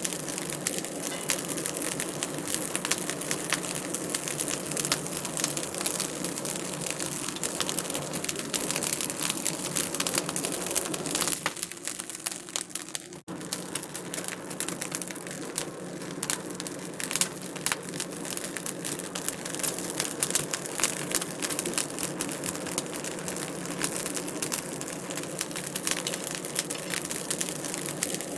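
Fire in a fireplace crackling continuously with dense, irregular small snaps, dipping briefly about halfway through.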